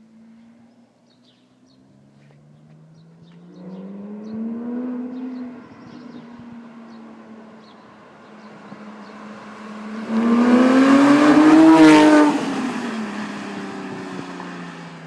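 Porsche 997 GT3's 3.8-litre flat-six through a full-titanium bypass exhaust, accelerating hard in low gear. The revs climb about four seconds in and drop at a gear change, then a louder climb peaks near twelve seconds in as the car goes by, and the note falls and fades as it draws away.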